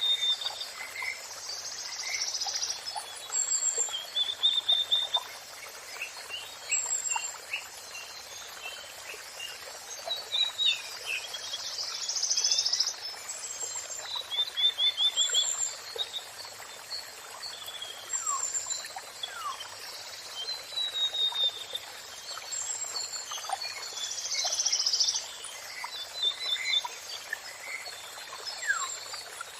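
Songbirds chirping and singing in short repeated phrases and trills, several calls overlapping, over a steady rush of falling water.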